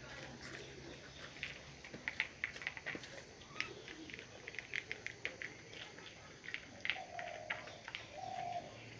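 Puppy lapping milk from a plate: a quick, irregular run of small wet clicks from the tongue.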